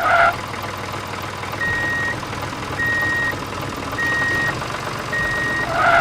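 Vehicle reversing alarm beeping four times, about once a second, over a steady engine hum.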